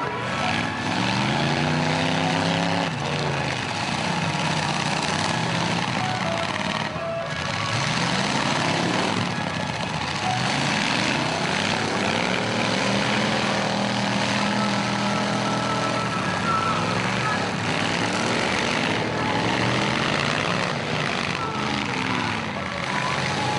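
Several demolition derby cars' and trucks' engines revving up and down over one another, again and again.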